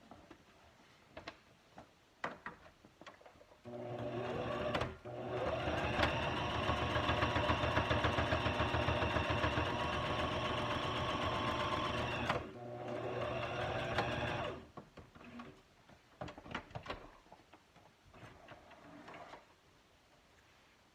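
Electric sewing machine sewing a zigzag stitch for about ten seconds, its motor speeding up as it starts and slowing as it stops. There are light handling clicks before and after the run.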